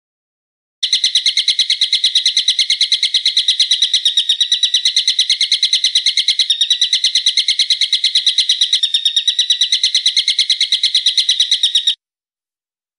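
A bird's call: one long, fast, even trill of about eight sharp high notes a second. It starts about a second in and cuts off abruptly near the end.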